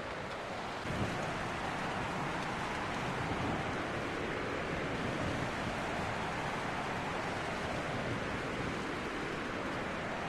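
Strong wind blowing in a steady rush with slow swells, changing abruptly about a second in.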